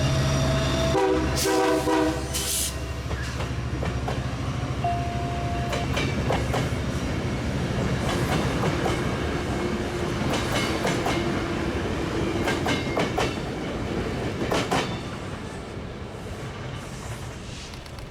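Metrolink diesel commuter train passing: the locomotive engine running, a horn chord of about a second and a half near the start, then wheels clicking over rail joints as the cars roll by, fading toward the end.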